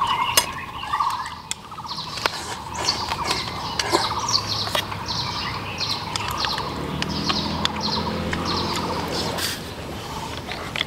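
A small bird chirping over and over, a quick series of short falling notes, with a few sharp clicks among them.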